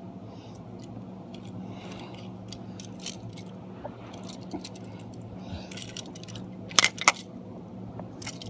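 Small toy pieces being handled: scattered light clicks and taps, with two sharp clacks close together about seven seconds in, over a steady low hum.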